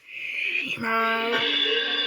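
A cartoon sound effect: a hissy, whooshing sound, then a held musical or sung-like tone that starts just under a second in and steps up in pitch about half a second later.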